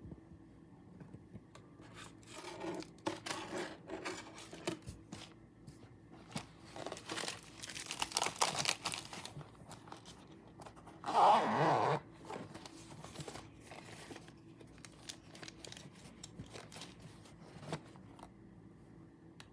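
Stationery and packaging being handled while a pencil case is sorted: crinkling and rustling with small clicks, and one louder rasping, tearing sound lasting almost a second about eleven seconds in.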